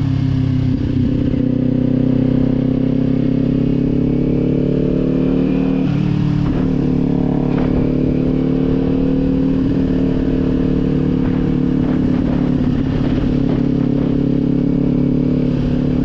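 Kawasaki sport bike engine through an aftermarket Leo Vince exhaust, running at fairly steady revs. There is a short change in the engine note about six seconds in.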